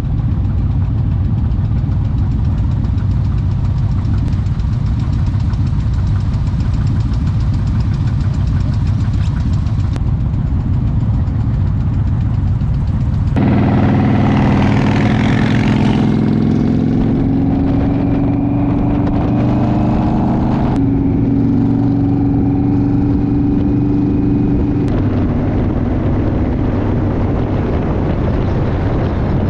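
Motorcycle engine running under way. About halfway through its note slowly rises for several seconds, then drops, with a further change a few seconds before the end.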